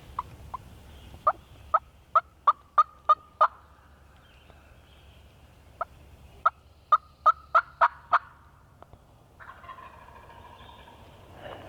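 Turkey yelping: two runs of sharp, evenly spaced yelps, about three a second, each run lasting a few seconds with a short pause between them.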